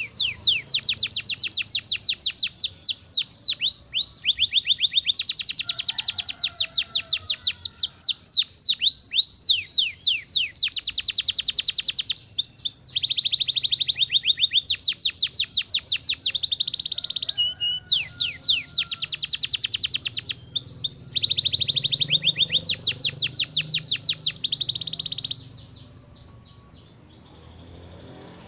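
Domestic canary singing long rolling trills of rapid repeated high notes, phrase after phrase, until the song stops abruptly near the end.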